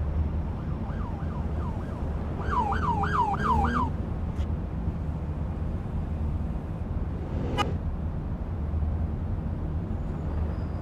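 Emergency vehicle siren in a fast yelp, rising and falling about three times a second for a few seconds, over a steady low rumble. A single sharp knock about seven and a half seconds in.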